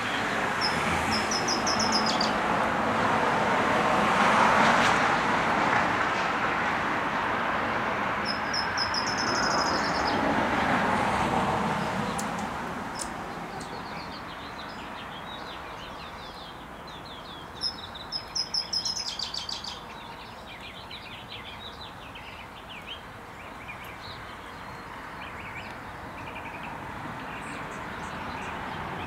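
Small birds chirping in short, rapid high trills, with a louder chattering burst a little past the middle. Under the chirps, a broad rushing noise swells over the first few seconds and fades away by about halfway through.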